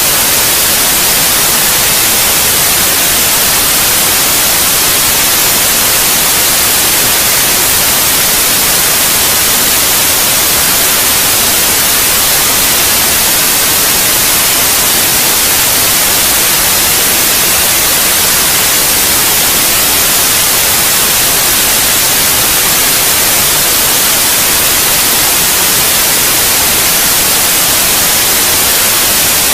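Steady white noise: an even, unbroken hiss, bright and high-heavy, at a constant level.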